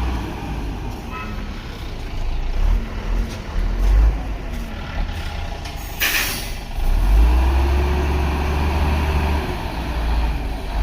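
Heavy truck engine running and labouring in waves, with one short, sharp air-brake hiss about six seconds in.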